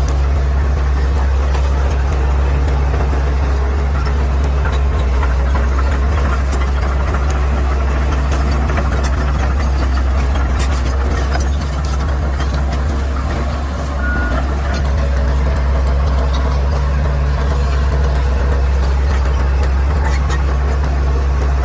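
Caterpillar D6R XL bulldozer's diesel engine running with a steady low drone, easing off slightly about two-thirds of the way through, with faint clicks and clanks over it.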